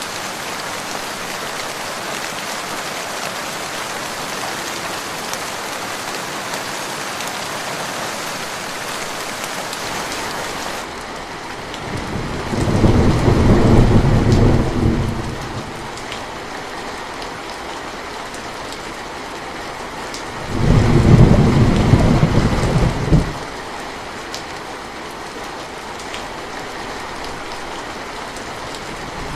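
Steady rainfall; about eleven seconds in it turns softer and duller, and two rolls of thunder follow, each rumbling for about three seconds, the second some eight seconds after the first.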